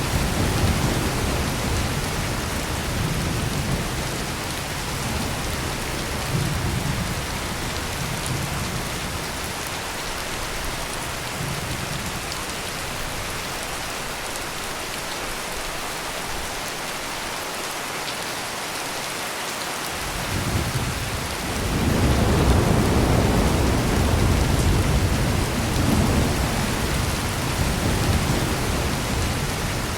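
Heavy rain pouring steadily, with rolling thunder rumbling low at first, dying away mid-way, then a fresh roll swelling in about two-thirds of the way through and rumbling on.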